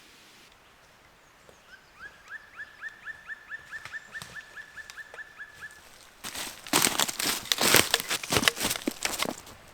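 A bird calls a quick series of short, rising notes, about four a second. After a few seconds it stops and a loud, dense crackling rustle of dry leaves and twigs takes over.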